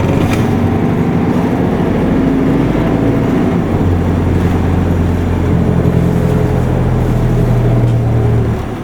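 Isuzu Erga Mio city bus's diesel engine running steadily under load, heard from inside the bus. Just before the end the engine note suddenly drops away and gets quieter.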